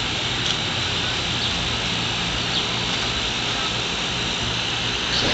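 Steady outdoor background: a low, even hum under a continuous high hiss, with a few short, faint high chirps about a second apart.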